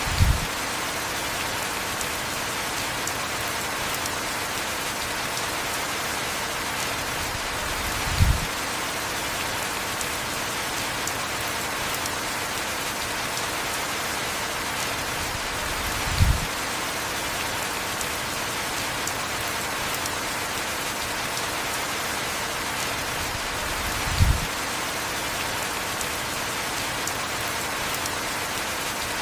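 Heavy, steady rain falling in an even hiss. A brief low thump sounds four times, about every eight seconds.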